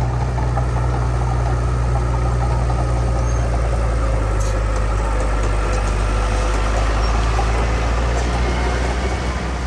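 Heavy diesel earthmoving machinery, a bulldozer or dump truck, running steadily with a deep, constant low engine hum.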